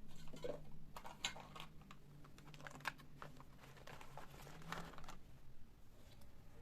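A run of irregular light clicks and taps over a faint steady low hum.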